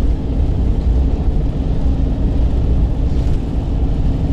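Steady low rumble of a car driving, heard inside the moving vehicle.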